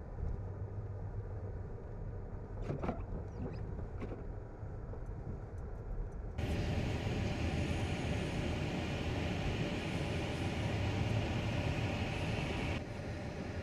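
Low rumble of motor vehicles with a steady hiss of noise, a few faint clicks a few seconds in; the sound suddenly gets louder and fuller about six seconds in and drops back abruptly near the end.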